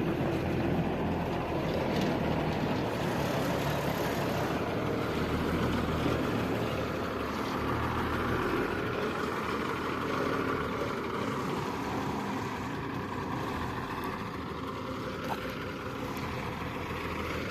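Diesel lorry engine running steadily as the truck is moved onto the loading point.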